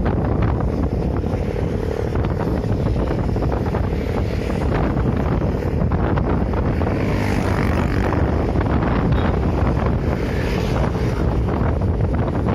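Strong wind buffeting the microphone, a dense low rumble with louder rushing gusts about seven and ten seconds in.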